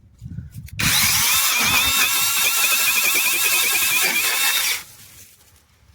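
Brushless cordless mini chainsaw starting about a second in and cutting into a shrub branch, its high motor whine wavering under load, then stopping suddenly after about four seconds.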